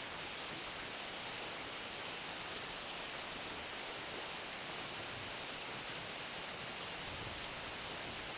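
Steady rainfall, an even hiss with no let-up.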